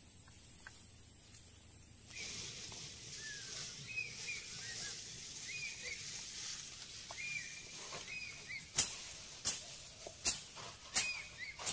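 A steady high insect drone with short bird chirps every second or so. From about nine seconds in come five sharp cracks, roughly 0.7 s apart, of woody stems being cut or snapped in dense brush.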